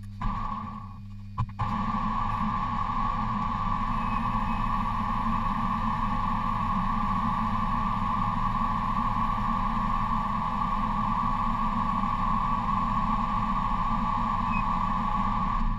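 A small motor running steadily: it starts briefly, stops for about a second, then runs without a break and cuts off near the end.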